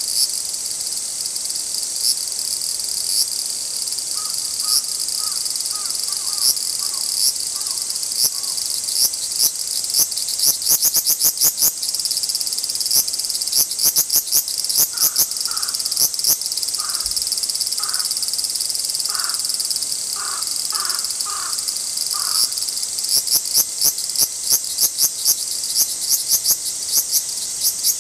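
Large brown cicadas (aburazemi) singing: a continuous high sizzling buzz laced with rapid clicking pulses that thicken into dense runs several times. Faint, short chirping calls come in twice over the buzz.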